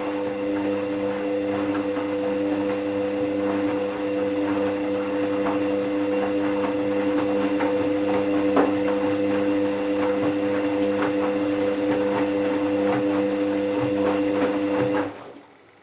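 Hoover VisionTech washing machine running, with a steady multi-tone motor hum and scattered light clicks and rattles from the drum. The sound cuts off suddenly about fifteen seconds in.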